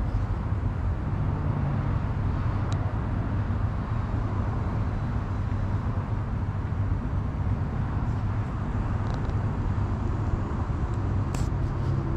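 Steady wind and riding noise rumbling on the microphone of a camera carried on a moving bicycle, with a couple of faint clicks.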